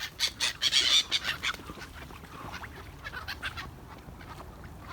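Waterfowl squabbling over thrown food: a rapid flurry of short, sharp calls, busiest about a second in, then thinning out to scattered calls.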